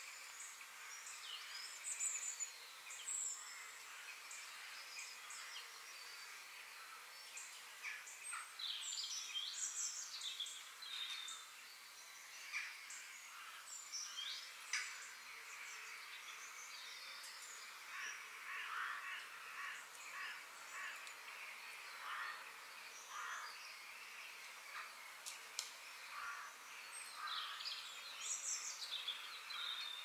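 Birds chirping and calling, many short overlapping calls throughout, over a faint steady background hiss.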